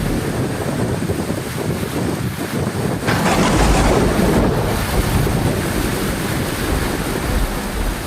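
Heavy rain falling with low rolling thunder. About three seconds in there is a louder, brighter burst that lasts about a second.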